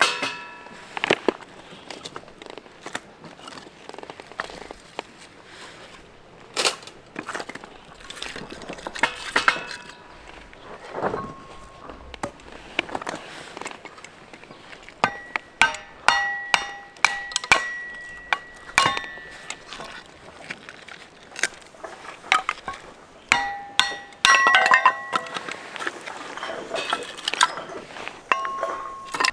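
Metal camping gear being handled: irregular knocks and clinks, several of them leaving short ringing tones, coming in busier runs partway through and near the end.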